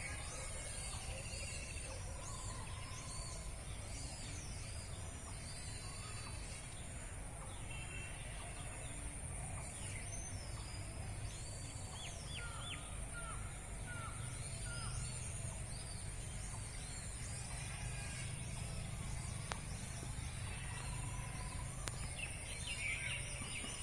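Mixed birdsong in the open: various birds chirping and calling, including a run of five short falling notes about halfway through. Under it sit a steady high-pitched whine and a low background rumble.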